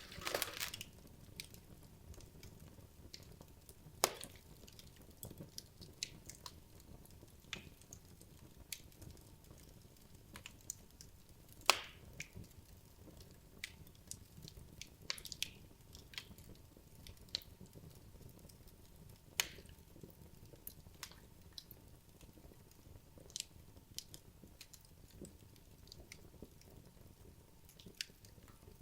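Wood logs burning in a fireplace: a low hiss of flame with irregular crackles and sharp pops, the loudest pops about 4, 12 and 19 seconds in.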